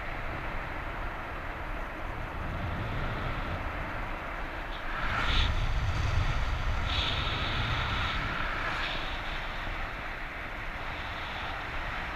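Wind rushing over the microphone of a paraglider in flight: a steady low rumble that grows louder about halfway through, with a thin high tone coming and going at the same time.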